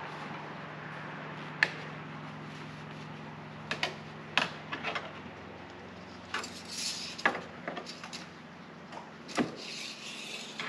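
Engine oil dipstick being drawn out of and pushed back into its tube to check the oil level: scattered sharp clicks and scrapes, with a couple of short rustles of wiping.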